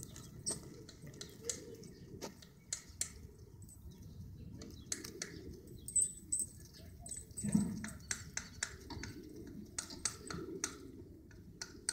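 Faint outdoor ambience: scattered short high chirps of small birds and irregular light clicks over a low, steady rumble.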